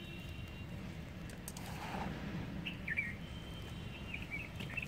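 Small birds chirping in short calls, a few about halfway through and a quick cluster near the end, over a steady low hum; fingers scratch lightly in loose potting soil.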